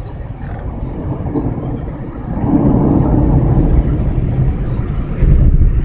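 Thunder rumbling after a close lightning strike, swelling sharply about two seconds in and rolling on, deep and low.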